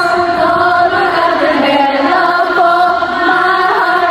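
A large, mostly female concert crowd singing together in unison, holding each note and stepping from note to note.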